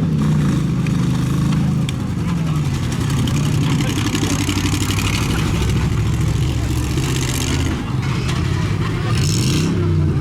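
Engines of demolition-derby pickup trucks running and revving, their pitch rising and falling again and again.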